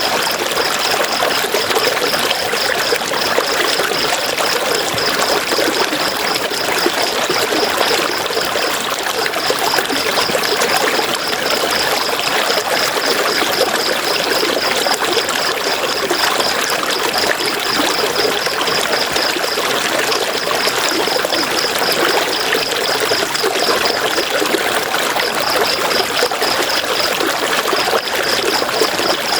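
River water flowing steadily. Over it runs a high, rapid pulsing trill in long runs, broken by short pauses a few times.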